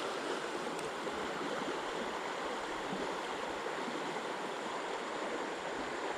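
Creek water flowing, a steady even rush with no break.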